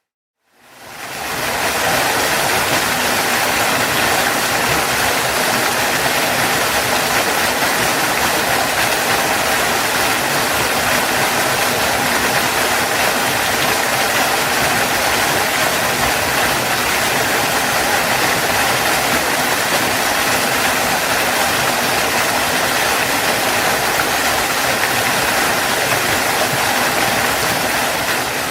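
A waterfall's water pouring steadily: an even, unbroken rush that fades in at the start and fades out near the end.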